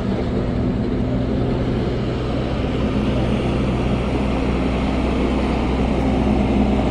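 Ace AX124 backhoe loader's diesel engine running steadily, a constant low drone with a slight rise in level towards the end.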